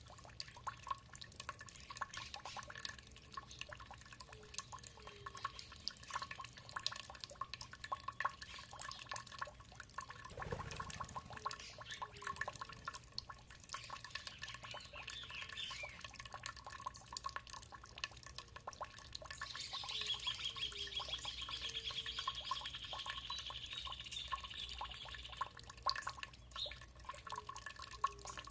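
Water dripping and trickling, many quick drips in an irregular patter, with birds calling; about two-thirds of the way in, a fast high trill runs for about six seconds.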